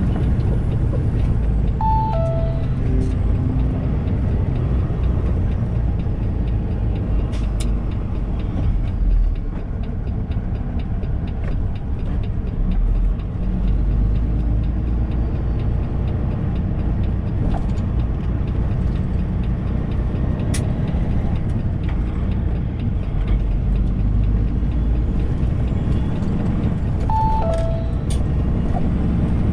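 Semi truck's engine and road noise heard from inside the cab while driving, a steady low rumble. A short two-note falling chime sounds twice, once about two seconds in and again near the end.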